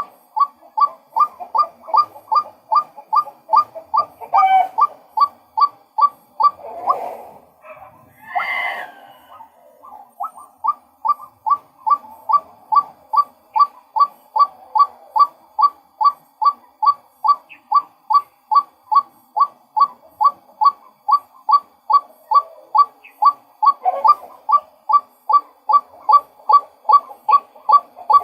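Male white-breasted waterhen calling: a long run of short, identical notes repeated about two and a half times a second. About a quarter of the way in, the run breaks for a few seconds with two rougher, noisier calls, then the steady notes resume.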